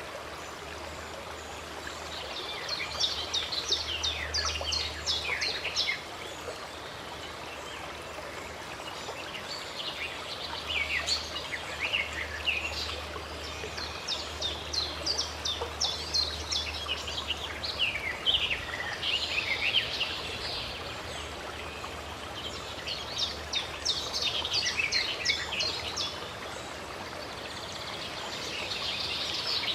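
Songbirds singing in quick, high chirping phrases over the steady rush of running water. The song comes in several bursts a few seconds long, with pauses in which only the water is heard.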